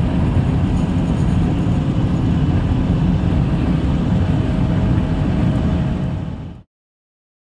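Strong gusting wind buffeting the microphone: a loud, steady low rumble that cuts off suddenly near the end into silence.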